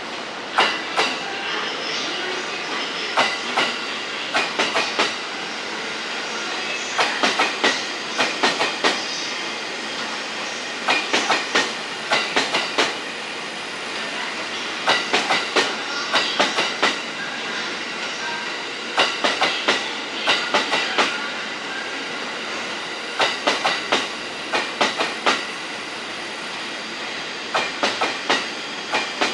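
Passing train's wheels clattering over rail joints: clickety-clack in groups of several clicks, one group about every four seconds as car after car goes by, over a steady running rumble.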